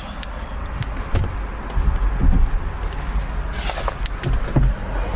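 Scattered clicks and knocks of a car door and handling over a low, steady rumble, with a brief hissing burst about three and a half seconds in.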